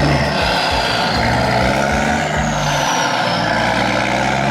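A vehicle engine running steadily, with a faint high whine that rises and then falls in the middle.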